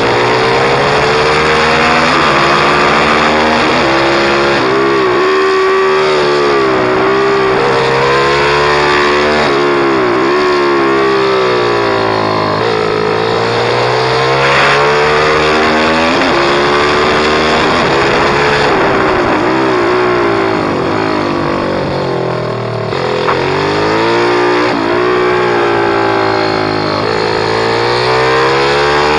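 Pit bike engine running hard, its pitch climbing and dropping over and over as the throttle opens and closes through gear changes.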